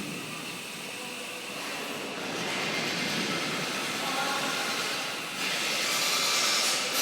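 Homemade electric stand-up wheelman-style vehicle riding: a steady rush of tyre and wind noise with a faint high, steady whine, growing louder about two and a half seconds in and again about five and a half seconds in.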